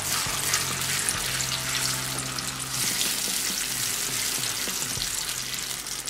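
Tomato purée sizzling as it fries in hot oil and butter, stirred with a wooden spatula that scrapes across a nonstick pan. A low steady hum runs underneath.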